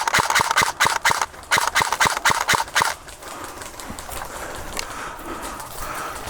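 A fast run of sharp knocks, about five a second, for roughly three seconds, then fading into quieter rustling and scuffing.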